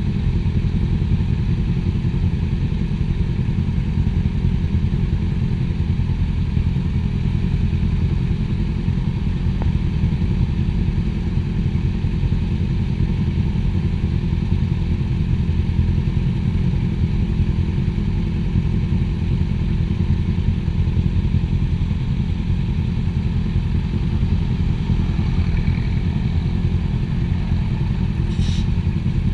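Motorcycle engine running at a steady speed, its low drone unchanging throughout, with a few faint high clicks near the end.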